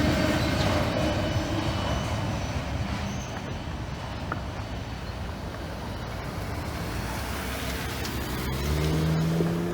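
A passing CSX freight train's rumble slowly fading as it goes by. Near the end, a road vehicle's engine swells up with a steady hum.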